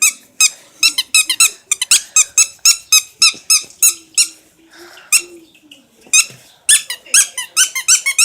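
Squeaky dog toy squeaking over and over in quick runs of short, high squeaks, about three or four a second, with a short pause in the middle.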